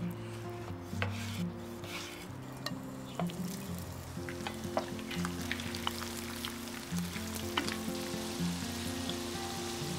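A few cleaver chops on a wooden board, then diced pork fat sizzling and crackling in a pan as it renders its lard, the sizzle starting about three and a half seconds in and lasting to the end. Soft background music plays underneath.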